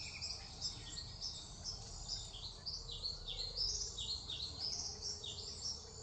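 Birds calling over and over in short notes that drop in pitch, with a steady high insect trill underneath.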